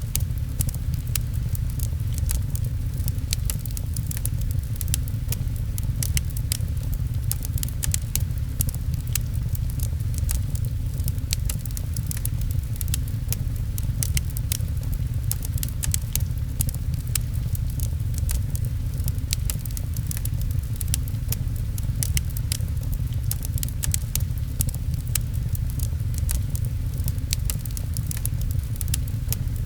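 Wood fire crackling in a fireplace, with many sharp pops at irregular intervals, over a steady low rumble and the patter of rain on a window.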